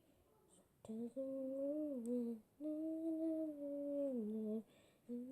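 A voice humming a slow tune without words: long held notes, each phrase sliding down in pitch at its end, with short breaks between phrases.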